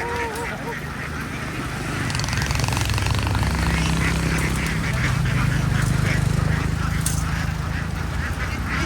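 A large flock of farm ducks quacking continuously, many calls overlapping. From about two seconds in, a low steady drone grows louder underneath.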